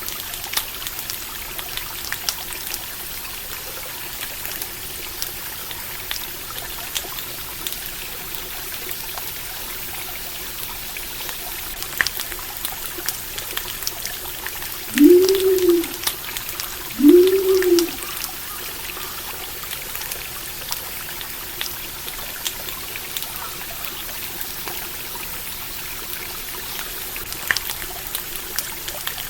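Stream water flowing steadily, with the scattered crackle of a campfire. About halfway through come two short low calls, each rising and then falling in pitch, about two seconds apart.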